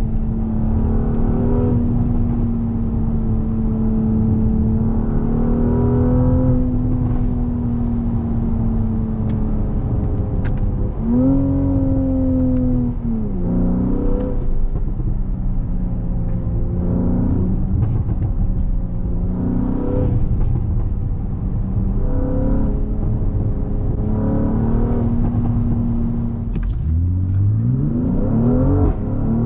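Mercedes-AMG GLC 43's twin-turbo V6 running under way, with road noise, holding a steady pitch at a cruise. The engine note rises and falls back briefly about a third of the way in. Near the end the revs climb steeply under acceleration.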